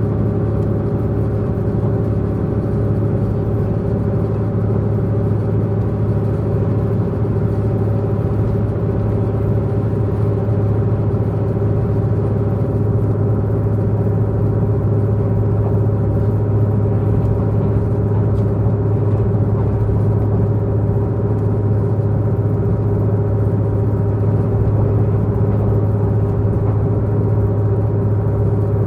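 Diesel multiple-unit express train's diesel engine running steadily under way, heard from inside the passenger car: a constant low drone with several steady tones over it and a rumbling noise beneath.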